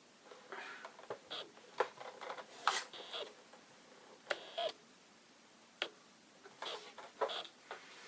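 A boxed Funko Pop figure set being handled: scattered light clicks, taps and short rustles of cardboard and plastic packaging.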